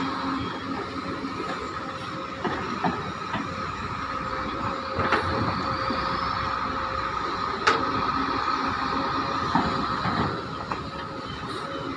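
Large excavator at work loading ore: its diesel engine running steadily with a constant high whine over it, and a few sharp knocks, the clearest about five and eight seconds in.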